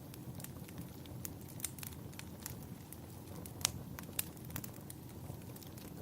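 Wood fire crackling in a fireplace: irregular sharp pops and snaps over a steady low rumble, with one louder pop a little past the middle.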